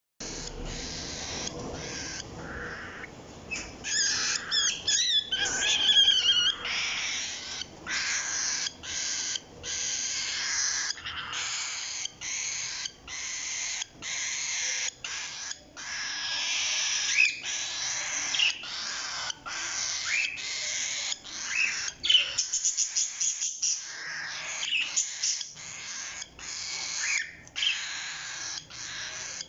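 Pet parrots calling: a steady run of harsh, raspy screeches, some whistled, pitch-gliding notes a few seconds in, and a quick rattling chatter past the middle.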